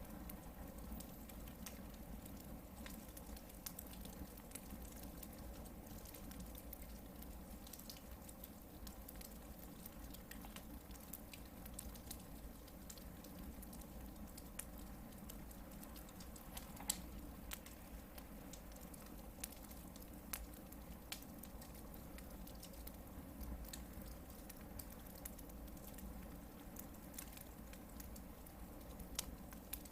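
Hardwood campfire burning, with scattered faint crackles and pops over a steady low background, one sharper pop a little before halfway and another near the end.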